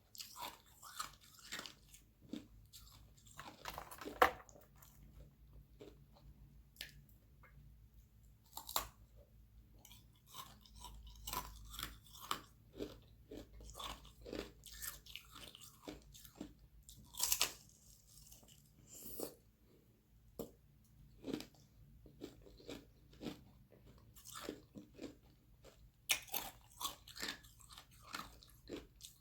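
Close-up chewing and crunching of thin sheets of ice frozen from carbonated water, with irregular crisp crunches and a few sharper bites, the loudest about 4 seconds in and again near the middle.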